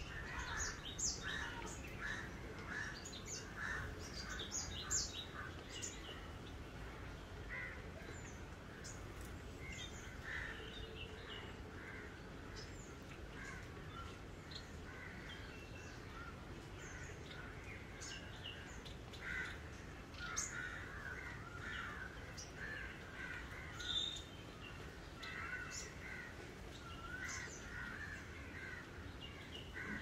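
Many birds calling and chirping, among them sparrows at a feeder: short repeated calls come thick and fast in the first few seconds, thin out, then pick up again in the second half.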